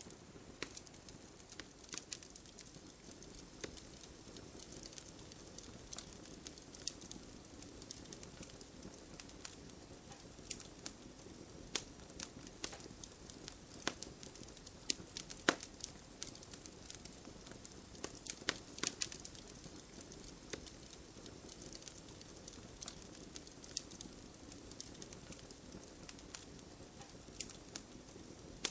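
Wood fire crackling with irregular sharp pops, the loudest about halfway through and a cluster of them shortly after, over a steady hiss of light rain.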